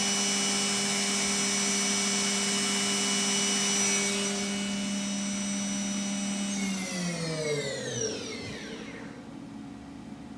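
Haas VF-3SSYT machining center's spindle running at high speed with a steady whine. About six and a half seconds in it spins down, its whine falling in pitch and fading out by about nine seconds.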